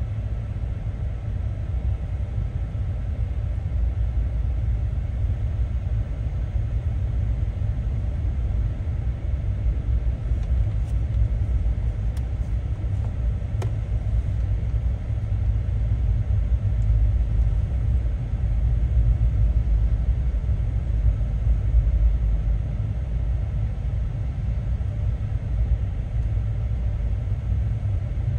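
Freight train cars rolling past at a grade crossing: a steady low rumble that swells and eases, heard from inside a stopped car.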